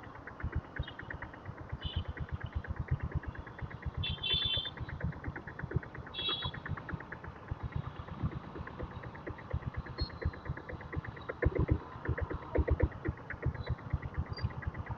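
Diesel Royal Enfield Bullet's single-cylinder engine running at low revs, an even chugging beat of about four to five pulses a second, with its changed silencer making it quiet for a diesel. A few short high-pitched sounds cut in over it in the first half.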